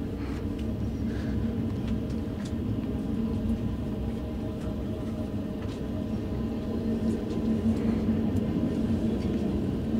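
Freight train of tank cars rolling past: a steady low rumble of steel wheels on rail, with a few faint clicks.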